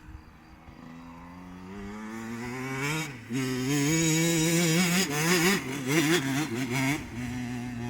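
Motocross bike engine revving: it grows louder with rising pitch, cuts briefly about three seconds in as for a gear change, then runs loud with the pitch going up and down as the throttle is worked, settling lower near the end.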